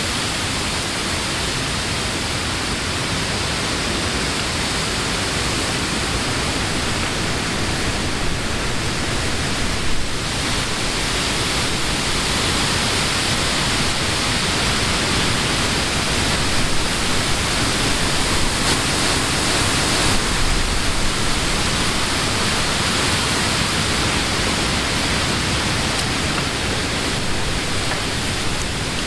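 Summer wind blowing through leafy trees: a steady rushing hiss of rustling leaves that swells a little about ten seconds in.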